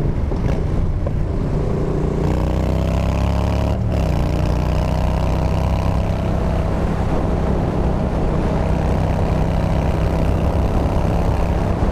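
Yamaha Bolt's 942 cc air-cooled V-twin running through a Bassani Radial Sweepers exhaust while riding. The engine note rises for a couple of seconds, breaks briefly about four seconds in, then holds a steady pitch.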